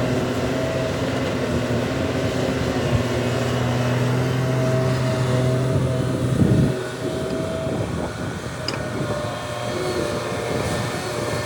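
Heavy diesel earthmoving machinery running with a steady low engine drone. A little past halfway there is a short loud burst, and then the drone drops back sharply.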